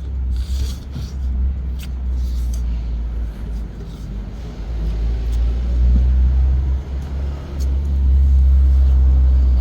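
A low rumble that rises and falls in loudness and swells near the end, with a few faint clicks and rustles over it.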